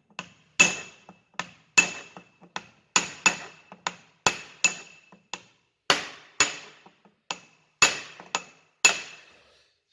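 A hammer striking a small chisel, metal on metal, staking a Toyota Prius steering-rack lock nut back into place. There are about twenty sharp, irregularly spaced blows, each ringing briefly, and they stop near the end.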